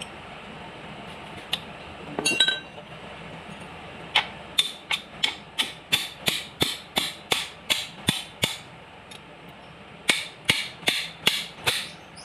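Repeated hammer strikes, about three a second, in two runs with a short pause between.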